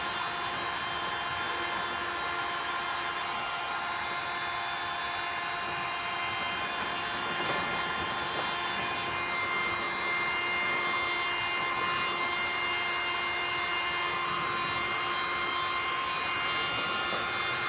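Electric heat gun running steadily: a constant motor whine over a rush of air, used to soften plastic so it can be bent into a canoe rib.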